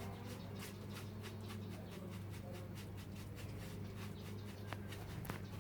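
Loose, flaky cement screed being scraped off a concrete substrate: a run of quick, irregular scratches and small knocks, several a second, over a steady low hum.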